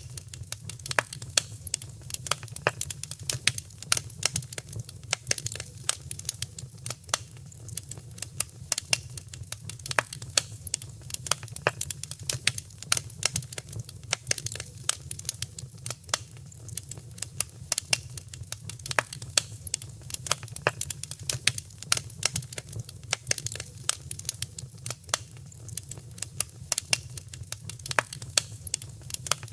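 Wood fire crackling in a fireplace: dense, irregular sharp pops and snaps over a steady low rumble of the flames.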